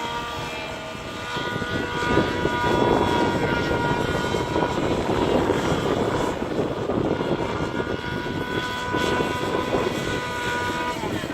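SAB Heli Division Black Nitro RC helicopter flying: the glow engine's steady high whine, with rotor blade rush swelling through the middle, and the engine pitch dropping near the end.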